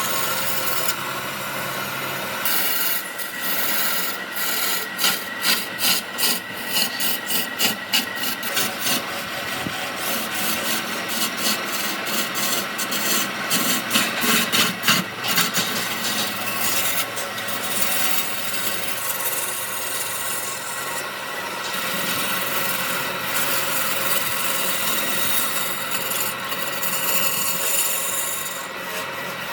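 Wood being worked by hand with an abrasive tool, rasping or sanding in repeated back-and-forth strokes. The strokes come about two a second through the first half, then settle into a steadier scraping.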